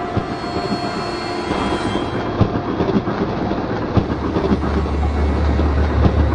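Train running along the rails, its wheels clacking irregularly over the track. About four seconds in, a deep low rumble comes in under the clatter.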